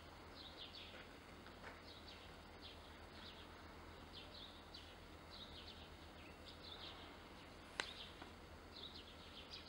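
Faint outdoor birdsong: small birds chirping in short, repeated calls over a steady low hum, with a single sharp click near the end.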